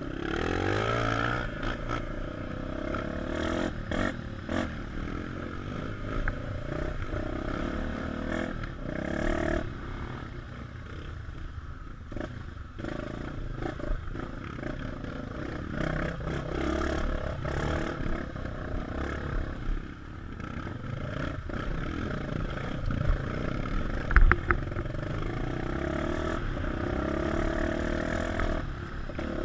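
Dirt-bike engine pulling away with rising revs, then riding off-road with the revs rising and falling, over clattering and scraping from the rough trail. A sharp knock about 24 seconds in is the loudest moment.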